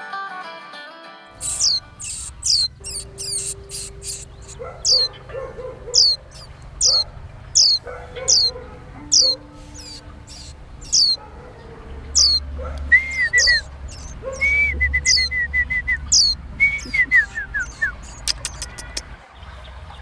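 A young white-eye chirping repeatedly: sharp, high calls that drop steeply in pitch, about one a second, with a few lower warbling calls and a quick trill in the middle. Guitar music fades out at the start, and a few sharp clicks sound near the end.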